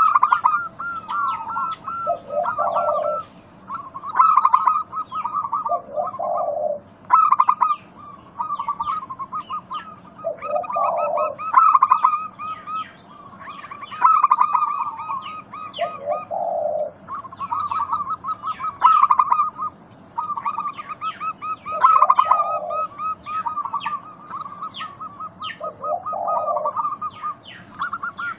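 Zebra doves cooing: a low, rolling coo phrase every three to five seconds over a near-continuous run of quicker, higher chirping notes.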